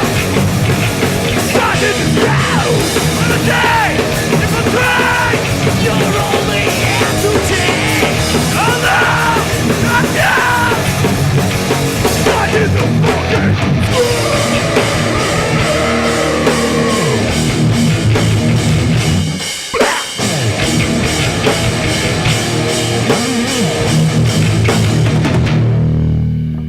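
Hardcore punk band playing live: distorted guitars, bass and drum kit with shouted vocals. The band stops abruptly for a moment about twenty seconds in, then crashes back in, and the song ends on a ringing chord near the end.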